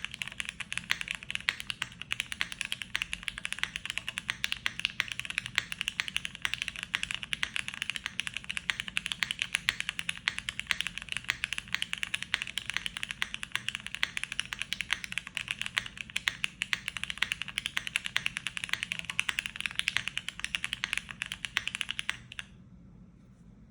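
Fast, continuous typing on a Transition TKL mechanical keyboard with Cherry Hyperglide Black linear switches on a polypropylene top-mount plate: a dense run of keystrokes that stops near the end.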